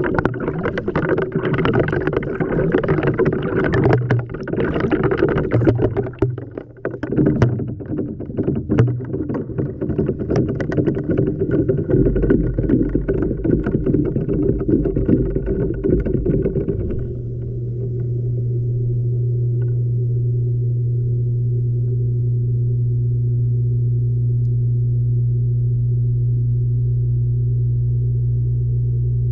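Water sloshing and tumbling inside an LG washing machine drum, with scattered clicks and knocks, heard from a camera inside the drum. A steady low machine hum joins partway through, and about 17 seconds in the sloshing stops suddenly, leaving only the steady hum.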